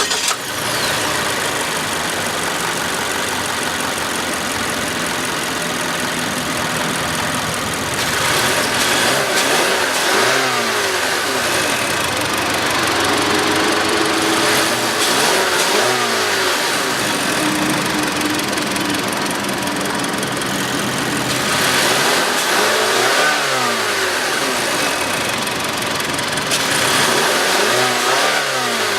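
Mazda 6 engine idling and being free-revved, stationary, four times: each rev climbs and falls back to idle over two or three seconds.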